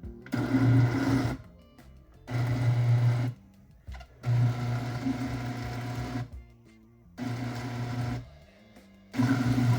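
Electric kitchen blender run in short pulses: five bursts of motor hum, each about one to two seconds long, with brief pauses between.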